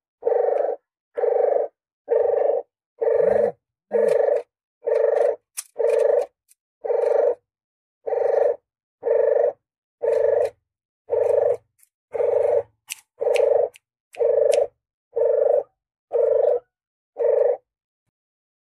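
Recorded call of a puter geni dove played as a hunting lure: an even series of short, low-pitched notes, about three every two seconds, stopping shortly before the end.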